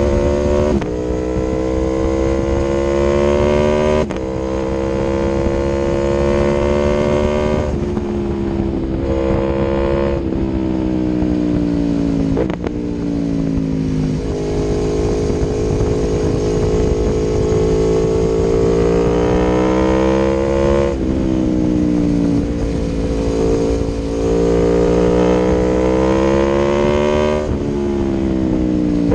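Aprilia Tuono V4 1100's V4 engine through an Akrapovic exhaust under way. The note climbs steadily and then falls back sharply several times as it runs up through the revs and changes gear, with a longer steadier stretch in the middle.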